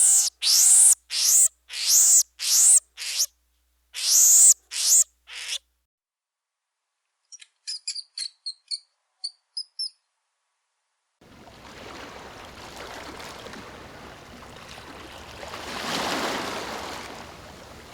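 A bird gives about nine shrill, screeching calls in quick succession, then stops. A few faint high chirps follow, and later a steady hissing noise starts and swells near the end.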